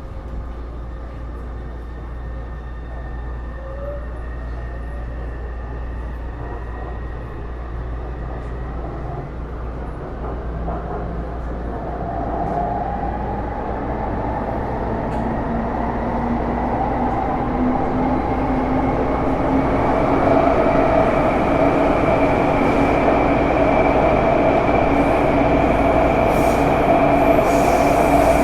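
Series C301 metro car's Bombardier IGBT-VVVF traction inverter and motors whining, the tones rising in pitch as the train gathers speed. The wheel and running noise grow steadily louder, then settle into steady tones late on.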